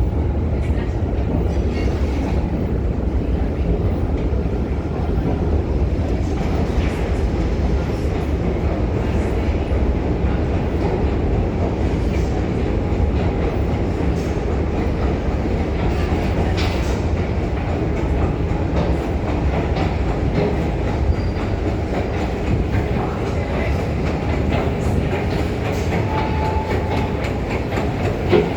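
New York City subway train running on the rails: a steady loud rumble with scattered clicking of the wheels over rail joints, and a single knock near the end.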